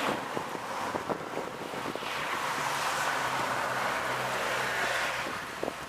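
Thunderstorm wind gusting and rushing over the microphone, swelling twice, with a few sharp taps.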